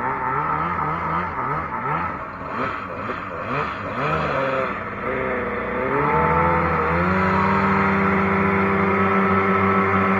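Jet boat engine running on the river, its speed rising and falling unevenly, then climbing and holding a steady higher pitch from about seven seconds in, with rushing noise underneath.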